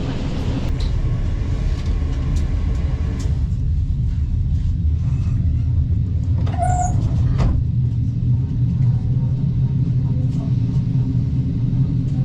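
Regional passenger train running, a steady low rumble, with a brief higher-pitched sound about seven seconds in.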